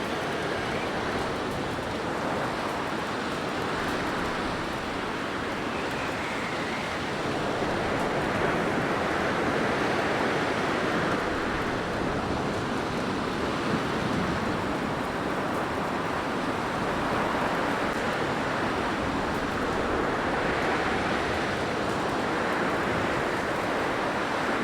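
Blizzard wind blowing: a steady rushing noise that swells and eases slowly every several seconds.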